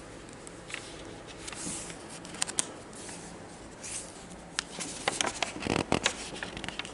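Paper rustling with light clicks and taps as the pages of a picture book are turned and handled, busier in the second half.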